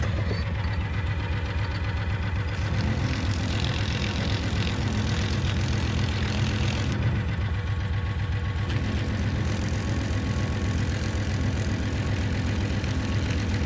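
Engine of a ride-on farm vehicle idling steadily with an even, rapid pulse. About two and a half seconds in, a hiss joins it for roughly four seconds.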